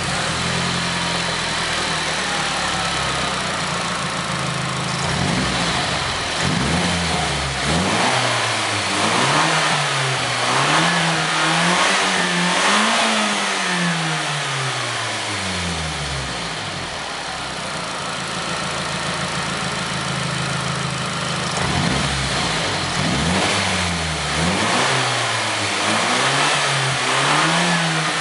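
Nissan SR20DET 2.0-litre turbocharged four-cylinder, a used unit with 147,851 km on it, running just after start-up. It idles steadily, is blipped up and down in a series of revs from about five seconds in, settles back to idle, then is revved again near the end.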